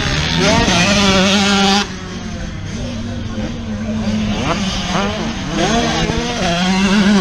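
A vehicle engine drones steadily under motorcycle engines that rev up and down over and over. A loud rushing noise drops off about two seconds in.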